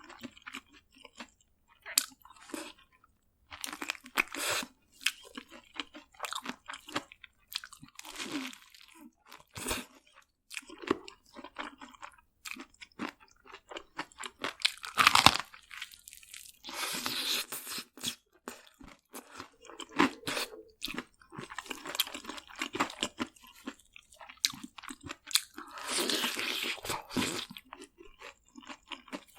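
Close-up crunching and chewing of crisp fried food: the coating of fried chicken or cheese balls crackling between the teeth in irregular bites. The loudest crunch comes about 15 seconds in.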